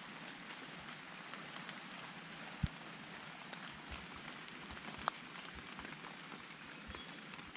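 Rain falling on rainforest leaves and ground: a steady hiss, with a couple of sharper drop taps about two and a half and five seconds in.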